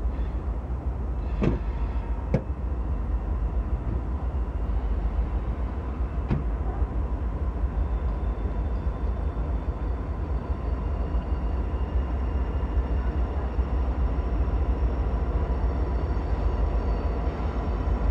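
Freight train rolling past with a steady heavy rumble, a few sharp clanks about a second and a half in, shortly after, and again about six seconds in, and a faint steady high tone over it.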